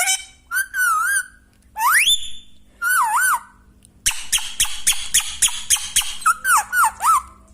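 Pet Indian green parrot (rose-ringed parakeet) whistling and calling: wavering whistles, one sharp rising whistle about two seconds in, then a couple of seconds of rapid repeated chattering notes and more wavering whistles near the end.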